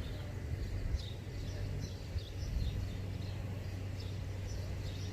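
Birds chirping, many short high calls repeating, over a steady low rumble.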